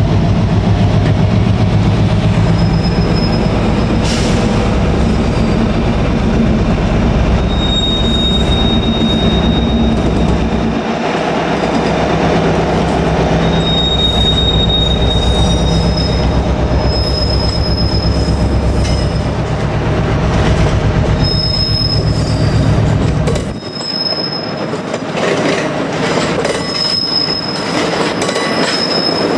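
A long rake of freight box wagons rolling past, wheels rumbling over the rails with repeated high-pitched wheel squeals coming and going. The low rumble falls away about 24 seconds in.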